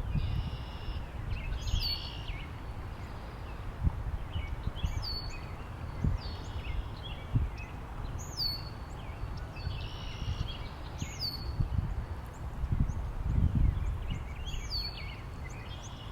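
Birds calling over and over: short high whistles that fall sharply in pitch about every second or two, mixed with longer buzzy notes lasting about a second. Underneath, wind rumbles on the microphone, rising in gusts.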